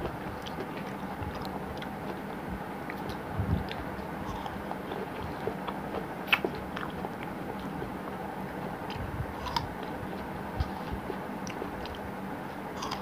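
A person chewing and biting fresh fruit, with small wet mouth clicks and a few sharper ticks of fingers on the fruit plate, over a low steady hum.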